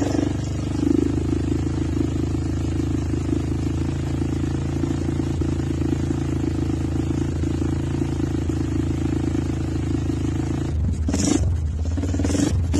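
Honda Mega Pro motorcycle with an aftermarket racing exhaust idling steadily with a deep, bassy note, then two short throttle blips near the end.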